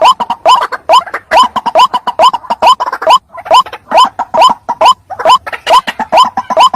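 White-breasted waterhen (ruak-ruak) calling loudly and without pause: a rapid string of short, rising notes, about two to three a second. This is the lure call that trappers play to draw in the birds.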